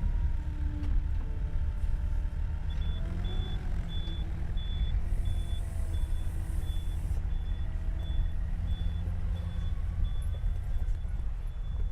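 A heavy vehicle's engine running with a steady low rumble, and a reversing alarm beeping evenly about one and a half times a second from about three seconds in.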